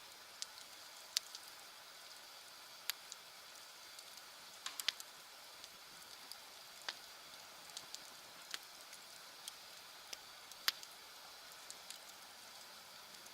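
Wood bonfire crackling: a soft steady hiss broken by sharp, irregular pops and snaps.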